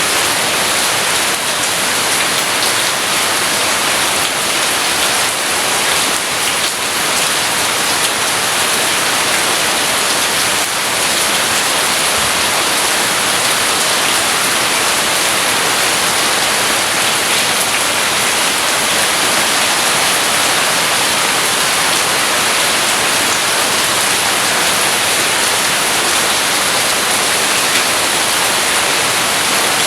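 Rain falling steadily, an even hiss with no thunder or other distinct events.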